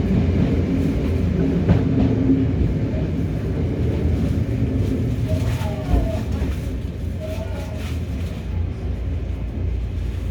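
Running noise inside a Hokuriku Railroad 03 series trailer car with no traction motors: a steady rumble of wheels on rail, with sharper knocks about two seconds in and again around six seconds in, typical of the wheels passing rail joints.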